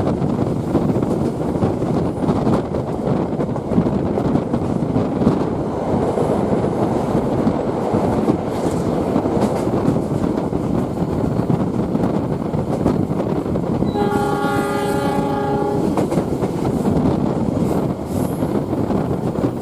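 Passenger train running along the track, a steady rumble with wheel clatter, heard from on board; about three quarters of the way through the locomotive's horn sounds once for about two seconds.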